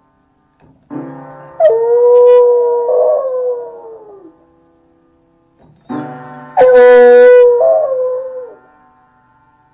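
A dog howling along with music in two long, drawn-out howls, each sliding down in pitch as it fades.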